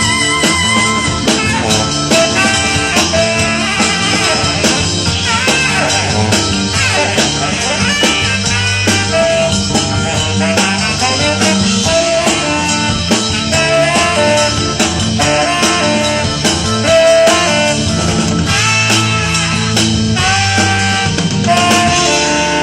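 Band playing blues-rock, guitar lines over bass and drums with a steady beat.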